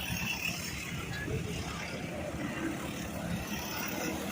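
Small racing engines running steadily.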